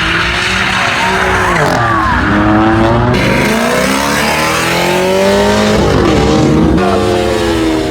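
Car engine revving hard, its pitch rising and falling repeatedly, over a steady hiss of spinning, squealing tyres. The sound changes abruptly about three seconds in and again near seven seconds.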